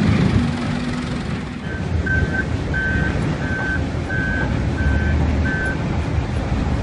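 A vehicle's reversing alarm giving about seven short high beeps, roughly one and a half a second, starting a couple of seconds in and stopping near the end, over the steady low rumble of a heavy engine running.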